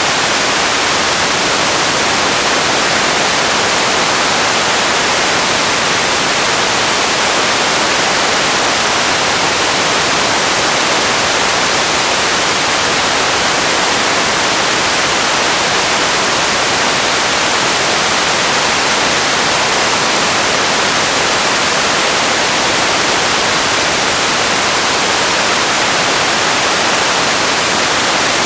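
Loud, steady static-like hiss, even and unchanging, bright in the highs with little low end. This is an empty ambience noise bed with no events in it.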